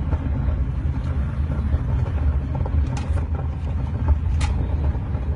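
Typhoon wind buffeting the microphone, a steady low rumble, with a couple of short sharp ticks about three seconds in and again a second and a half later.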